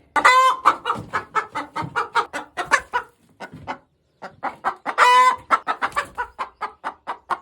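A hen cackling loudly in two bouts: each opens with a long squawk and runs into a quick string of short clucks, several a second. The second bout starts about four seconds in. It is the hen's egg song, the cackle hens make around laying.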